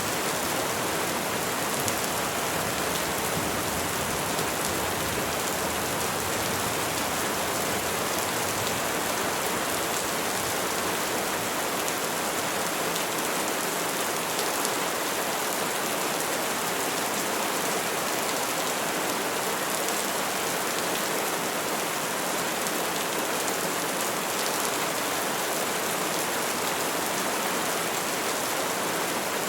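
Steady, even rain falling on trees, a continuous hiss of drops on leaves.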